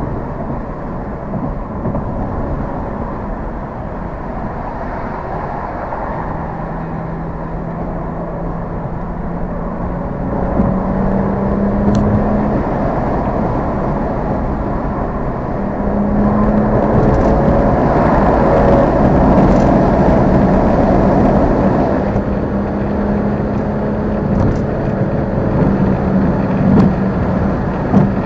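Car engine and road noise while driving, heard from the car. The engine note climbs in pitch and gets louder a few times, most strongly in the middle, as the car accelerates, then settles into a steady cruise.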